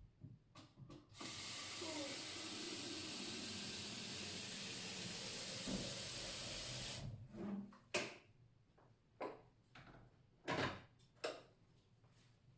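Water running from a kitchen tap in a steady rushing hiss for about six seconds, turned on and off abruptly, followed by a few light knocks and clatters.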